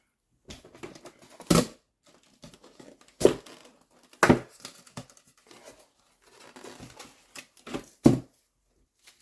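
Packaging rustling and crinkling as model-plane parts are lifted out of their box. There are several sharp, louder crackles or knocks in among the rustling.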